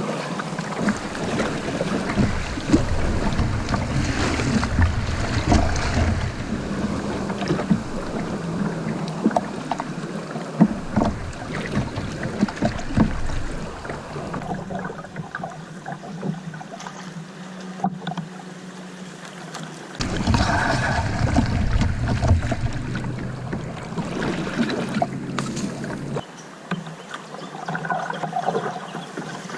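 Kayak being paddled through a fast, flood-swollen river current: paddle splashes over rushing water. A low rumble on the microphone comes and goes in long stretches.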